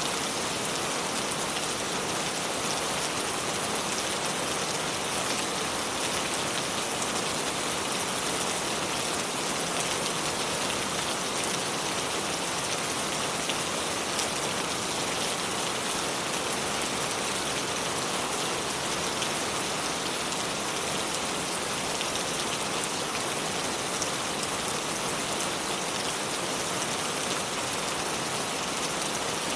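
River water flowing over stones: a steady, even rush with fine splashing throughout.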